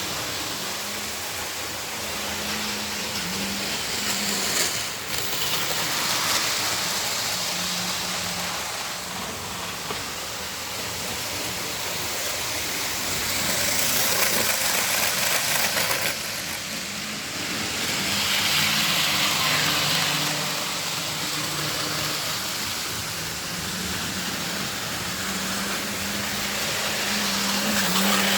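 Model trains running round a layout: a steady rush of wheels on the rails with a low electric-motor hum underneath, swelling louder several times as trains pass close.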